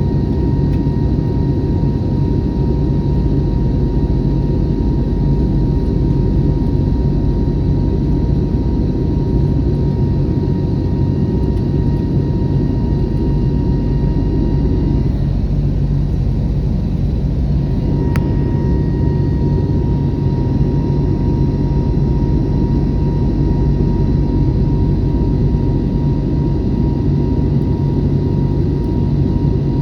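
Airbus A321neo jet engines running steadily: a constant low rumble with a steady hum, unchanging in pitch and loudness.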